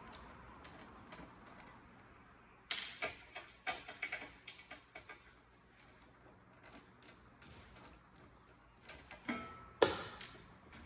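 A series of light clicks and knocks of tools and hard parts being handled on a workbench, in a quick cluster early on and again near the end, where one sharp clack is the loudest.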